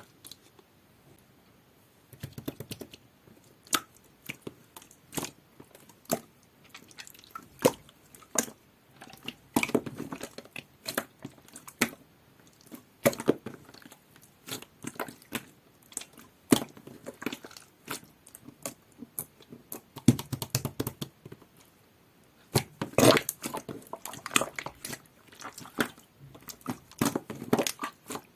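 Clear jelly-textured slime being squeezed and worked by hand, giving a dense run of irregular sticky clicks and pops that starts about two seconds in, with a brief lull about two-thirds of the way through.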